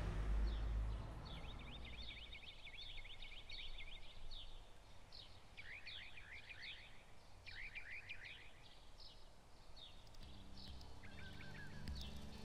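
Small songbirds chirping in quick repeated trills over faint outdoor background noise. Near the end, soft sustained music notes come in.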